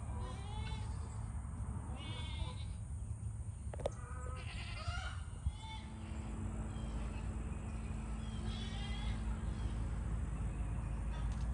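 Farm animals bleating: about four short, quavering bleats a couple of seconds apart, over a steady low rumble.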